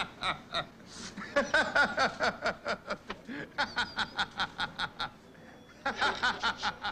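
Laughter: quick rhythmic bursts of mocking laughing that break off twice, about a second in and about five seconds in, then pick up again.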